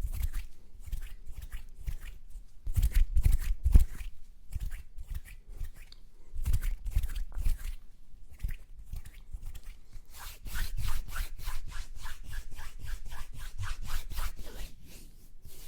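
Close-miked ASMR mouth and hand sounds: a stream of short wet clicks and taps with rubbing that rumbles against the microphone. From about two-thirds of the way in, the clicks come in a quicker, even run of about four a second.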